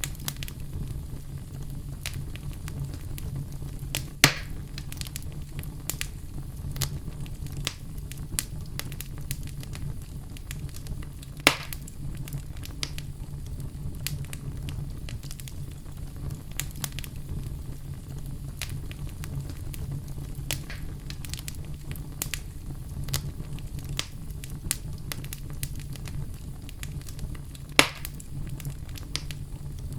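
Wood fire crackling in a fireplace: a steady low rumble of burning with many small snapping crackles. Three louder pops stand out, about four seconds in, near the middle and near the end.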